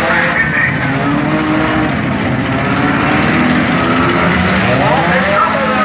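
Engines of several junk race cars running hard, loud throughout, their pitch rising and falling as they rev, with a climb in revs about four to five seconds in.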